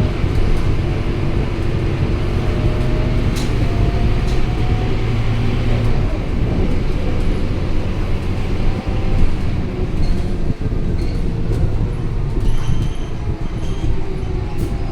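Scania K230UB bus's diesel engine running with a steady low drone, which eases off about six seconds in.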